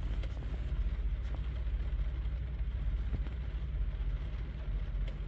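Steady low rumble with a faint hiss over it and a few light clicks.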